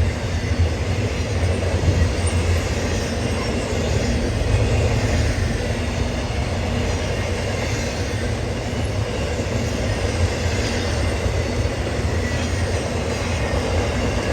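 CSX intermodal freight train passing at track speed, its cars rumbling and rattling over the rails at a grade crossing in a steady, unbroken noise.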